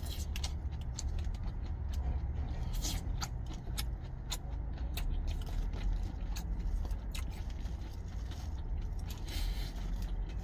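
Crisp chewing of fresh salad greens, with scattered clicks and scrapes of a plastic fork against a plastic salad container, over a low steady rumble.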